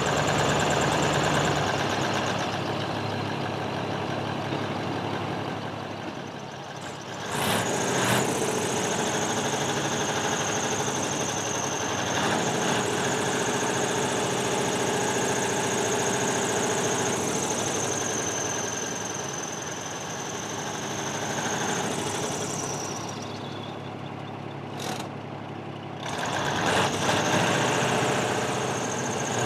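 Diesel truck engine mounted in a small boat, running with a steady clatter. A thin high whine runs through the middle part, and the sound changes abruptly about 7 seconds in and again about 26 seconds in.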